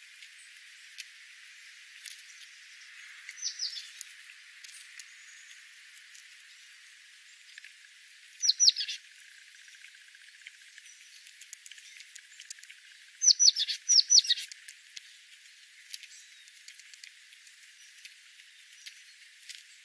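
A small bird chirping: three bursts of quick, high notes that sweep downward, a few seconds apart, with the last burst a run of about four notes. Faint ticks in a light background hiss.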